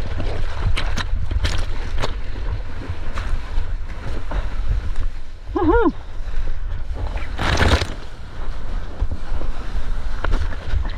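Wind buffeting a GoPro action-camera microphone over rushing sea water while surfing, with a brief vocal whoop about halfway through and a louder rush of water about three-quarters of the way in.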